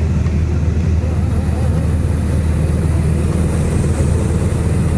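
A small propeller airplane's engine and propeller running steadily in flight, a constant low drone under a rushing noise, as heard from inside the cockpit.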